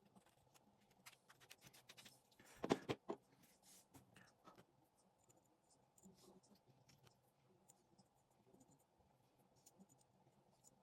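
Faint clicks and scrapes of small parts of a Decathlon spinning reel being handled during repair, with a louder cluster of sharp clicks about three seconds in.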